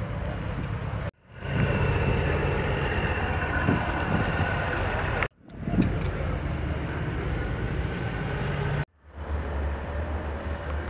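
Steady hum of a car engine idling. It cuts out abruptly three times, about one, five and nine seconds in, and fades quickly back in each time.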